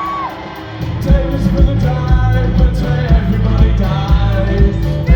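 Live post-punk band playing: a held note fades, then drums and bass come in about a second in, with a melody line over them.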